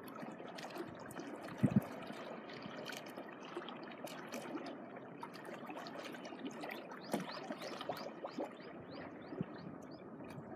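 Small waves washing and trickling at the shoreline, a steady wash of water full of small splashes and clicks. A short low thump comes just under two seconds in.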